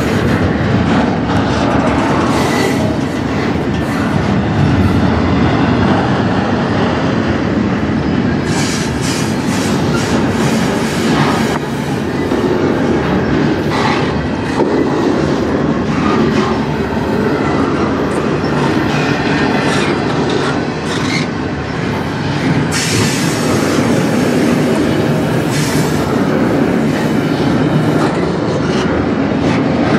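Freight train of double-stack intermodal container well cars rolling past close by: a steady loud rumble of steel wheels on rail, with frequent clicks and clacks.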